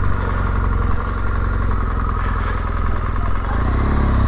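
Yamaha Ténéré 700's parallel-twin engine running at low speed, rising in pitch near the end as it picks up.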